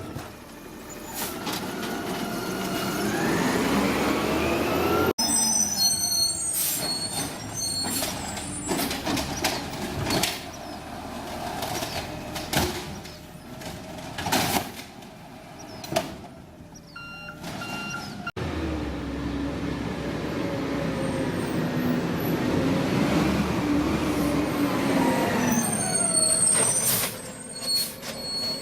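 A garbage truck's diesel engine revs up with rising pitch. This gives way to a run of clanks and bangs. The engine then runs high again and winds down near the end.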